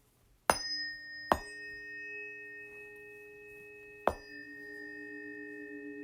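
Planetary tuning forks for Saturn, Mars and Uranus struck one after another: two sharp strikes about half a second apart early on and a third about four seconds in. Each leaves a steady, pure ringing tone. The overlapping tones beat against each other in a slow pulsing wobble near the end.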